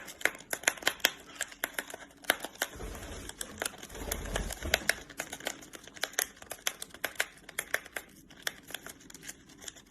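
A parrot tearing and crinkling open a tea packet with its beak: irregular sharp crackles and clicks, several a second.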